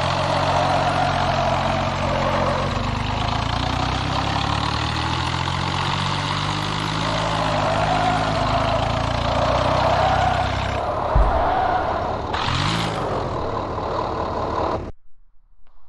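Tractor engine running steadily, with a single knock about eleven seconds in and a brief hissing burst soon after. The sound cuts off abruptly near the end.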